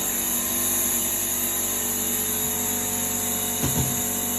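Running machinery on a pipe-lining job, a steady drone with a strong high hiss; a short knock about three and a half seconds in.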